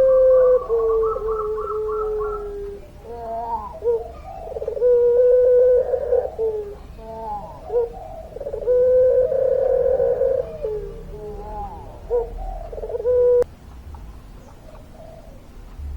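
Puter pelung dove giving long, drawn-out coos: one long call over the first three seconds, then a run of shorter coos, another long coo from about nine to eleven seconds in, and a last one that cuts off about thirteen seconds in.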